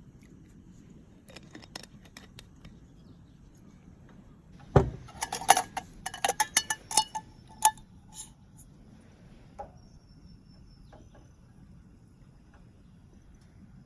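Hard objects, metal by the ringing, being handled: a few light clicks, then a knock about five seconds in, followed by a quick run of clinks and clatters lasting a few seconds, and a couple of stray taps afterwards.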